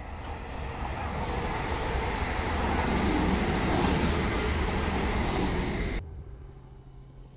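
A TransPennine Express Class 185 diesel multiple unit passing close at speed: a rushing of wheels on rail and running gear that builds over the first few seconds and is loudest as the train goes by. The sound cuts off suddenly about six seconds in, leaving a much quieter background.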